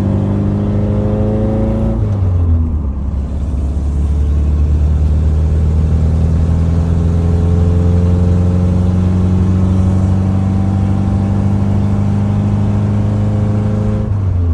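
Car engine pulling under load, its pitch climbing slowly. It drops sharply about two seconds in and again near the end as the transmission shifts up.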